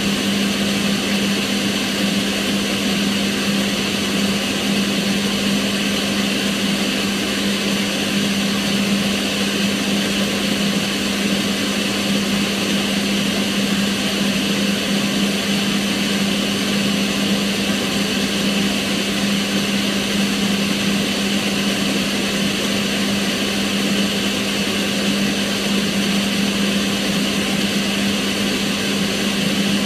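Kitchen range hood extractor fan running steadily, a constant rush of air over a steady low hum.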